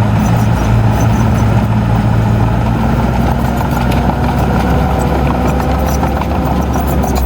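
Heavy diesel engine of earthmoving machinery running steadily at an even, low pitch.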